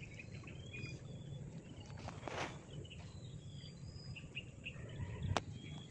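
Faint birds chirping now and then over low steady outdoor background noise, with a brief swishing rush a little over two seconds in and a single sharp click near the end.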